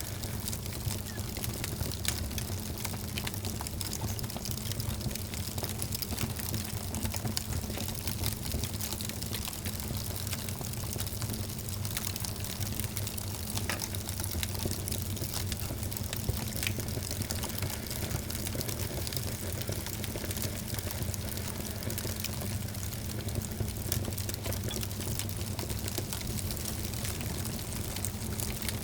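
Fire crackling in a fireplace: frequent small irregular snaps and pops over a steady low rumble and hiss.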